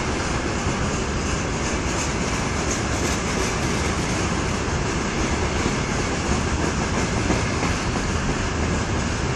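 Freight train rolling by, a steady noise of wheels running on the rails.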